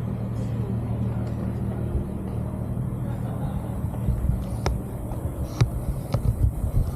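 A car engine idling with a steady low hum that fades after about four seconds, followed by irregular low thumps and a few sharp clicks.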